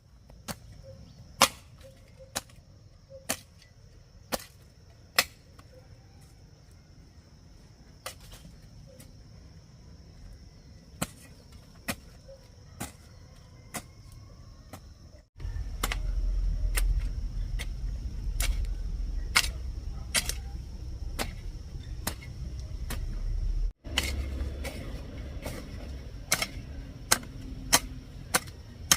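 Sharp knocks at irregular intervals, roughly one a second, over a steady high thin tone; about halfway through a low rumble grows much louder.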